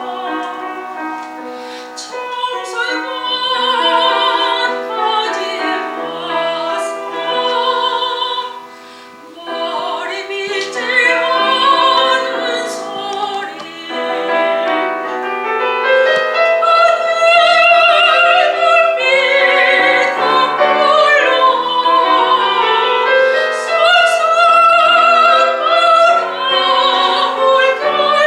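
Soprano singing a Korean art song with vibrato over piano accompaniment, with a brief softer pause about nine seconds in.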